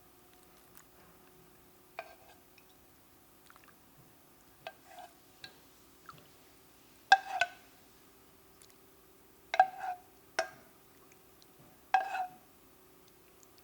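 A spoon knocking against a glass dish about seven times, each knock ringing briefly, amid faint liquid sounds, as the coconut-milk dessert is stirred and scooped. A faint steady hum runs underneath.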